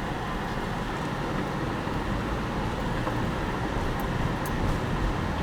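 Steady road and engine noise heard from inside a car driving over an ice-covered road, with a few faint ticks about four seconds in.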